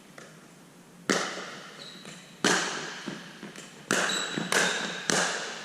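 Pickleball rally: paddles striking the hollow plastic ball and the ball bouncing on the court, five sharp pops about a second apart, each with a short ringing tail.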